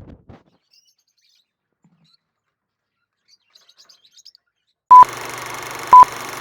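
Faint, high bird chirps, then about five seconds in a steady hiss starts and short, loud electronic beeps sound once a second, twice.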